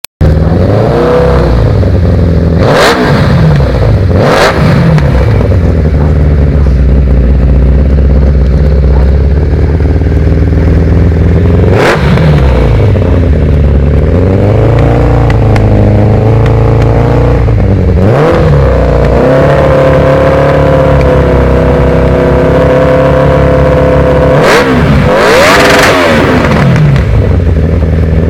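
Suzuki Bandit 600's inline-four engine running loudly through an aftermarket BZL full exhaust system: idling, blipped up and back down about six times, and held at a raised steady speed for about five seconds in the second half.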